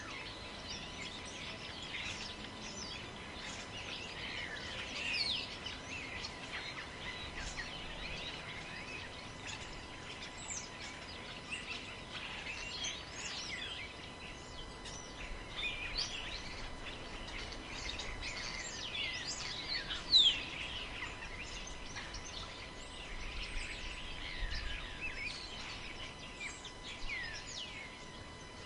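Forest birds chirping and calling in an overlapping chorus, with short sweeping notes throughout and one loud sharp call about 20 seconds in, over a faint low wind rumble.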